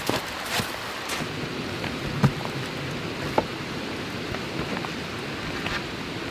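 Steady heavy rain falling, with a few sharp single ticks standing out, one a little after two seconds and another about three and a half seconds in.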